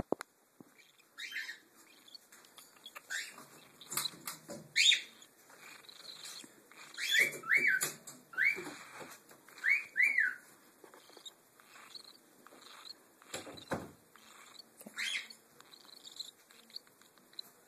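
Baby cockatiel chicks giving short chirping begging calls during hand-feeding, scattered through, with several in quick pairs around the middle, and a few soft knocks of handling.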